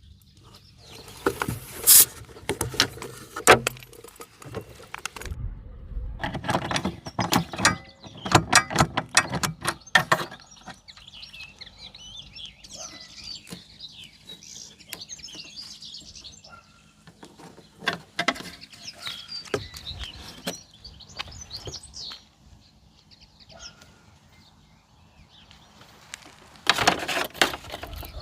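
Irregular clicks and knocks in three bursts, near the start, in the first third and near the end, with faint bird chirps in the quieter middle stretch and a faint steady low hum underneath.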